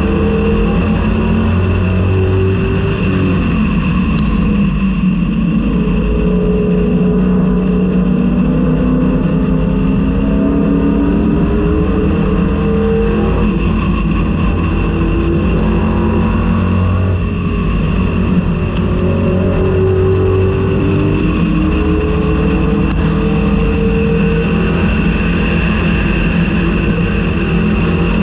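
1999–2004 Ford Mustang race car's engine running hard at racing speed, heard on board; the revs climb and fall repeatedly with shifts and throttle changes through the corners.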